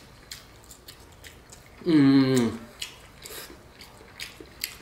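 Close-miked chewing of a mouthful of tender lamb, with scattered wet mouth clicks. About two seconds in, a drawn-out hum of appreciation that falls in pitch.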